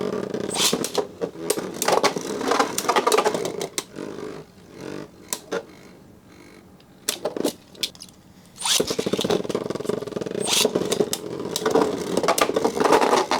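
Metal Fight Beyblade tops (an L-Drago and Gravity Perseus) spinning and clashing in a plastic stadium: a whirring buzz with rapid sharp clicks as they collide. The spinning and clashing die down for a few seconds in the middle, then start again suddenly about nine seconds in as a new battle begins.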